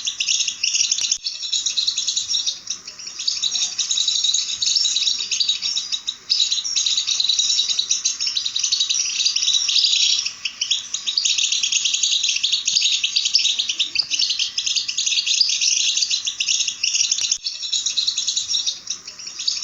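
European goldfinch singing: a continuous, rapid high-pitched twittering song with brief pauses.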